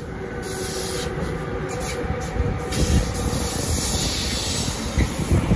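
Freight train passing close by: a double-headed SBB Cargo container train hauled by two Re 193 Vectron electric locomotives, its wagons rumbling over the rails with the occasional heavier knock from the wheels.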